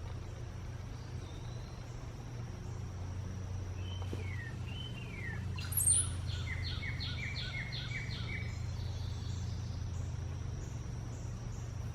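Song of the bird called a cowbird, its call likened to gurgling water: a few short falling whistles about four seconds in, then a quick run of about eight repeated notes with a high note near its start, lasting about three seconds. A steady low hum and a thin, high, steady tone run underneath.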